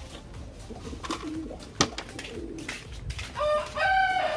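Racing pigeons cooing in the loft, with a sharp click about two seconds in. Near the end a louder, drawn-out call holds a steady pitch for over a second.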